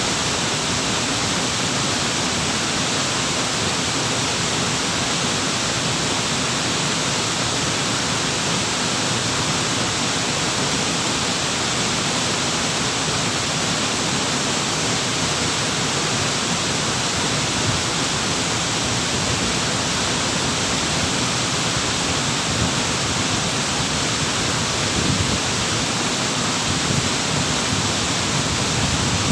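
Waterfall: water falling and pouring in a steady, continuous rush, with a few slightly heavier surges near the end.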